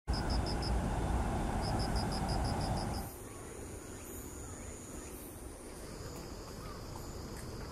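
Insects chirping and trilling: a fast run of high pulses, about eight a second, over a low rumble for the first three seconds, then, after a sudden drop in level, several thin steady high trills with faint scattered chirps.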